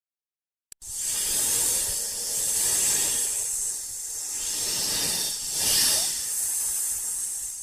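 A hissing, rushing noise sound effect that starts with a click about a second in, then swells and eases in slow waves.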